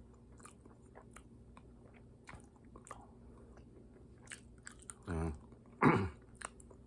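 A person chewing and biting food close to the microphone, with many small crunchy clicks. Two short vocal sounds come about five and six seconds in, the second louder.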